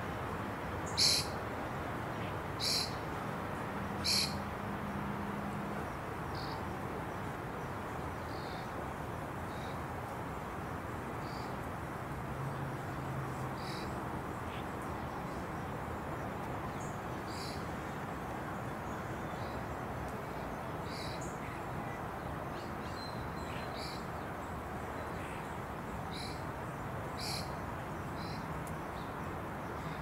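Short, high bird chirps at irregular intervals over steady outdoor background noise. The three loudest come in the first five seconds, with fainter ones scattered after.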